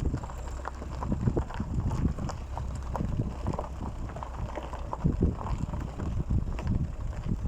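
Irregular knocks and scuffs over a steady low rumble of wind on the microphone.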